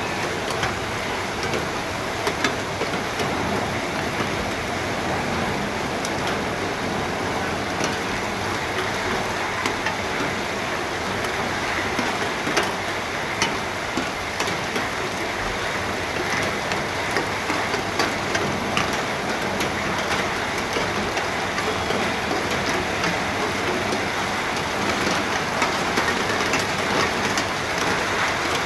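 Steady rain, falling evenly, with many sharp individual drops ticking on a surface. It grows a little louder near the end.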